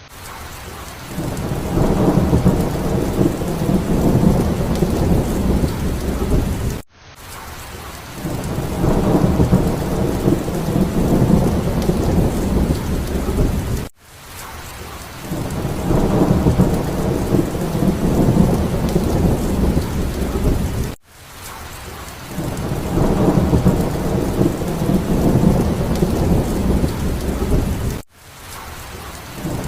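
Heavy rain with rolling thunder, as a short loop repeated four times. In each cycle the rain comes first, then a low rumble of thunder swells up over it for about five seconds and cuts off abruptly where the loop restarts.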